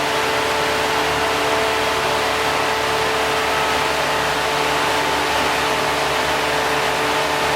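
Prepared Renault 4 four-cylinder engine, bored out to 1557 cc on a cast-iron Cléon block with a Weber 40 IDF carburettor, running steadily at low revs just after dropping back from higher revs. A steady high whine and a hiss run alongside it.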